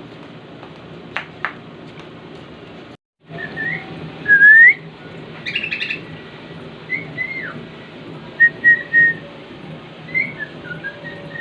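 Cockatiel whistling a string of short rising and falling notes, with a brief harsh chirp in the middle, over a steady background hiss. The sound cuts out completely for a moment about three seconds in.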